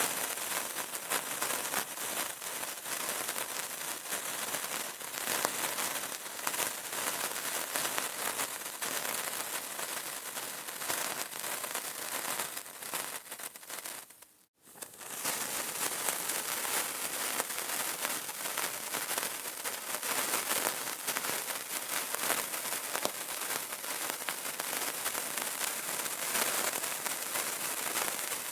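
Burning candle crackling: a dense, continuous spatter of small pops and snaps. About halfway through the crackling drops out for a moment, then picks up again.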